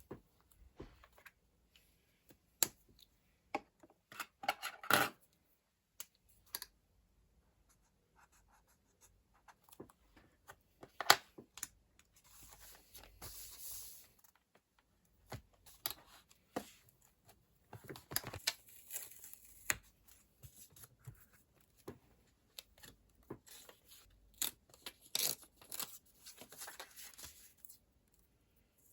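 Close-up paper and sticker handling: stickers peeled from their backing sheets with short tearing rasps, among scattered small clicks and taps of paper and stationery.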